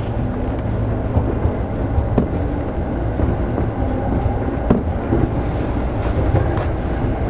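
Yamanote Line electric commuter train running along the track, heard from inside the front car: a steady low rumble, with a couple of short sharp clicks.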